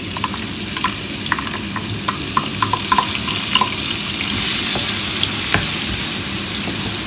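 Ground garlic and ginger sizzling in hot oil in a pan, with a utensil clicking against the pan several times in the first few seconds as it is stirred. The sizzle grows a little louder after about four seconds.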